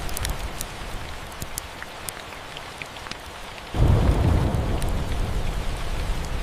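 Steady rain with scattered sharp fireplace crackles. About four seconds in, a low thunder rumble starts suddenly and rolls on; it is the loudest sound.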